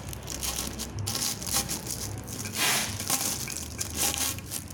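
Irregular crinkling and rustling handling noise in uneven bursts, as an exhaust header pipe is handled and worked at to open it.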